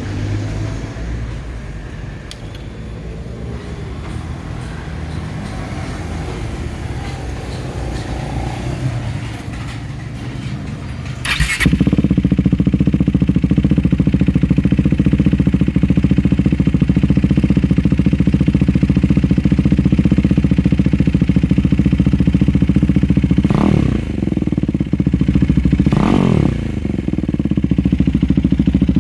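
KTM RC 390's single-cylinder engine, breathing through an aftermarket IXIL exhaust with the catalytic converter kept, fires up after a low background rumble. It settles into a steady, bassy idle and is given two short throttle blips near the end.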